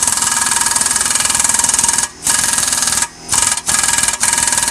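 Power wrench driving a 14 mm socket on the exhaust bolts. It runs in several long bursts with short pauses between them, snugging the new exhaust section and gasket tight.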